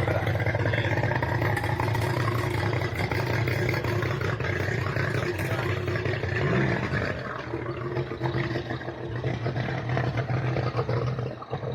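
Watercraft engine running steadily, with a low engine hum under a wide rushing noise; the pitch shifts about six to seven seconds in.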